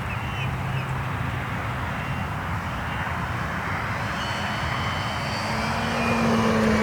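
Electric motor and propeller of a large RC Waco biplane model running in flight, growing louder near the end.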